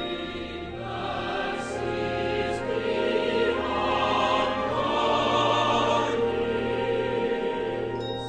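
Choral music, voices holding long sustained chords.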